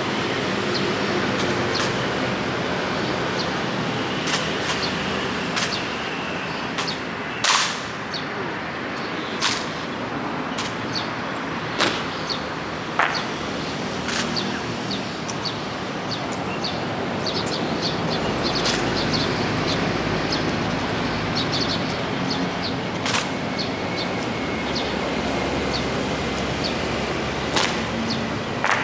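Steady hiss of rain with scattered sharp clicks and knocks at irregular intervals, the loudest about seven seconds in.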